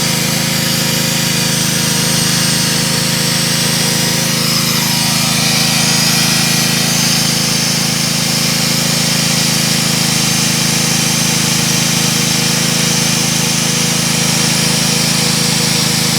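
Magnetic drilling machine's motor running steadily at an even, unchanging level, with a fast buzzing rattle.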